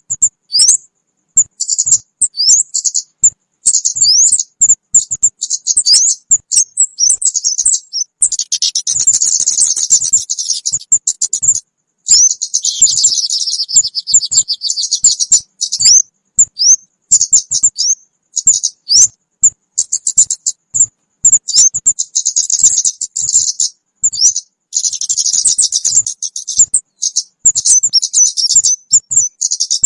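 Looped lure recording of small kemade birds calling: rapid high chirps and upward-flicking notes, broken by several longer stretches of dense, buzzy trilling.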